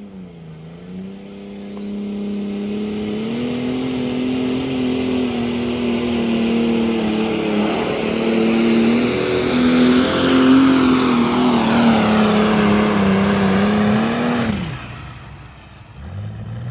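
Competition pulling tractor's engine at full throttle through a hook down the track, holding a high, steady note with small wobbles for about twelve seconds. The note then drops sharply and cuts off as the driver lets off at the end of the pull.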